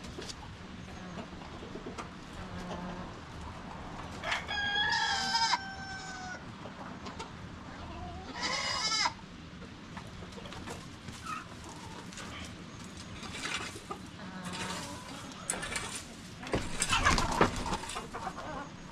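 Rooster crowing about four seconds in, one long call held on a steady pitch, followed a few seconds later by a shorter rising call, with hens clucking between. Near the end comes a loud burst of noisy scuffling.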